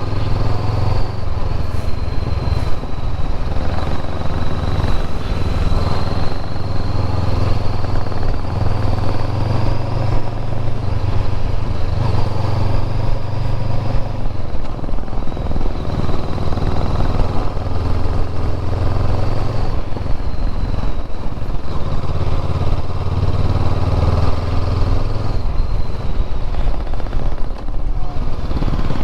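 Motorcycle engine running while riding, with steady wind rush; the engine note eases back briefly a few times, as when the throttle is rolled off, and picks up again.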